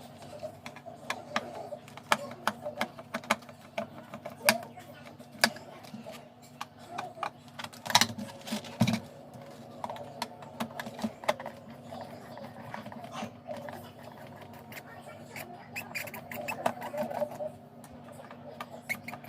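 Irregular small clicks and taps of handling, the loudest about eight seconds in, over a steady low electrical hum.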